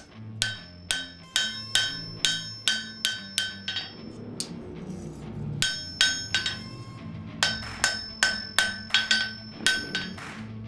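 Blacksmith's hammer striking hot iron on an anvil, each blow ringing, at about three strikes a second in two runs with a short pause around four to five seconds in.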